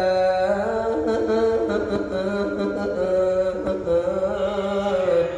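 Arabic devotional chant (suluk) for the Prophet, sung unaccompanied in long, drawn-out notes that glide slowly from pitch to pitch.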